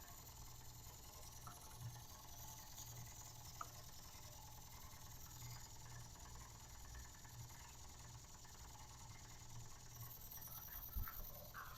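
Weeden No. 10 toy steam engine running under steam, faint: a steady low hum with light ticks, and a couple of sharp clicks near the end.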